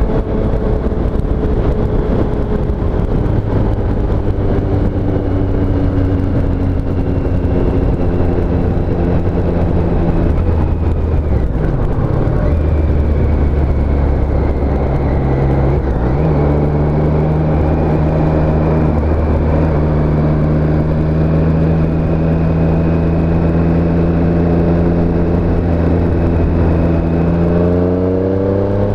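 Triumph Street Triple S three-cylinder engine under way. The engine note slowly falls for about the first ten seconds and shifts around twelve seconds in, then holds steady at a cruise. It rises again as the throttle opens near the end, with wind and road noise throughout.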